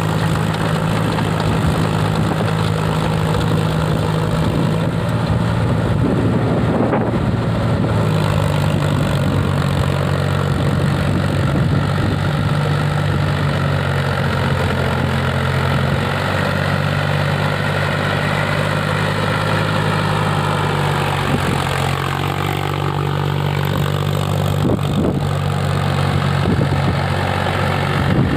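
Mahindra 275 Bhoomiputra tractor's three-cylinder diesel engine running steadily, its speed shifting slightly a few times.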